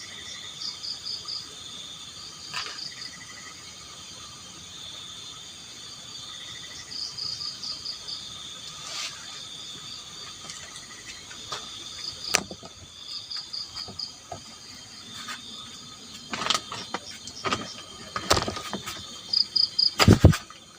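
Forest insects chirping: a steady high trill under short pulsed chirp bursts that come every second or two. From about halfway on there are scattered sharp knocks, with a loud cluster of them near the end.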